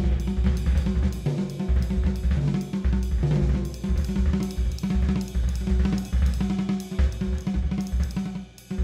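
Jazz drum kit playing busily, with cymbals, hi-hat, snare and bass drum, over a double bass line; the music drops away briefly near the end.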